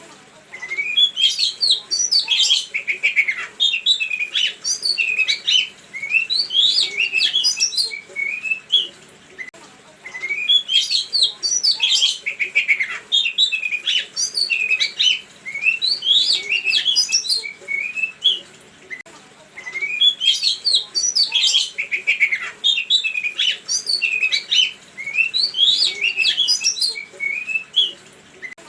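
A songbird singing a lure recording: a dense phrase of quick rising and falling chirps and whistles, repeated on a loop about every nine to ten seconds, three times over.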